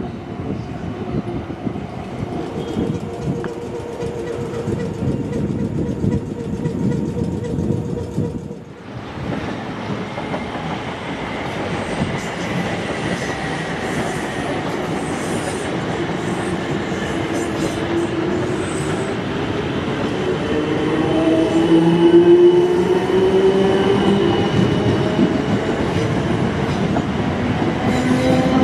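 Electric multiple-unit passenger trains running through a station: wheels clattering on the rails under a steady motor hum. After an abrupt break about a third of the way in, another train's noise builds up, with a motor whine rising in pitch, and is loudest a little past two-thirds of the way through.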